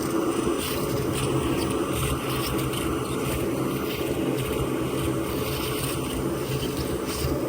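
Bee vacuum running steadily, an even motor hum with no break, as bees are vacuumed off the comb.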